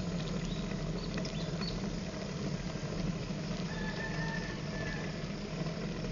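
A rooster crows once, a drawn-out call about four seconds in, over a steady low rumble from the moving bike. A few short high chirps come early on.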